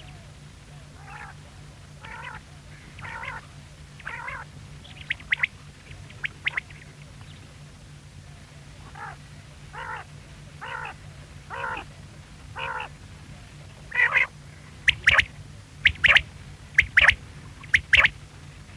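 Quail calling: short repeated notes at about one a second, some in quick pairs, growing much louder and sharper in the last few seconds.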